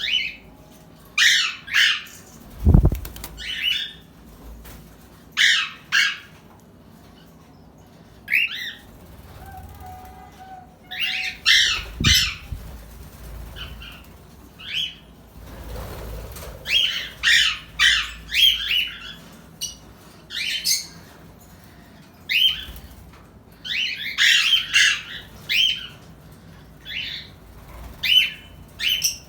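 Caged pet parrots calling in short, harsh chirps and squawks, many in quick succession. Two low thumps come through, about three seconds in and again about twelve seconds in.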